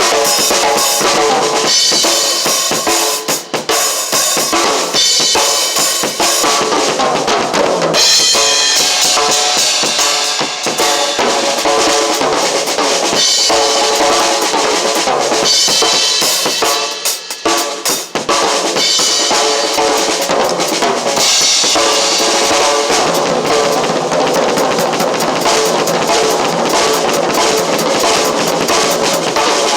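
Drum kit played continuously: kick, snare and cymbals, with short breaks in the groove about three seconds in and again a little past the middle.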